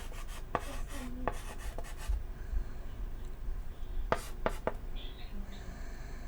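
Chalk writing on a chalkboard: a few short scratchy strokes and taps, some in quick clusters, with a gap in the middle.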